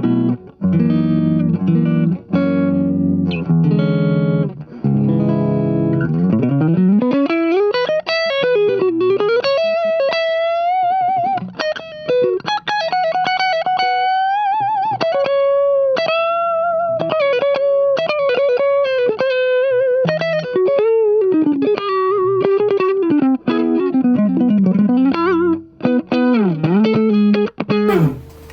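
Electric guitar played through a compressor pedal. Chords ring for the first six seconds, then a single-note lead line follows, with slides and vibrato.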